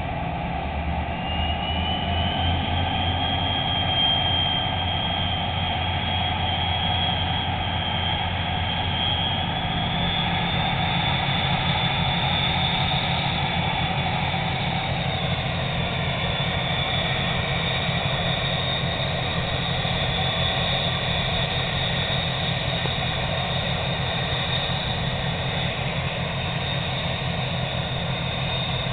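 Towboat's diesel engines running steadily while pushing barges, a low drone with a high steady whine above it that climbs slightly in pitch near the start.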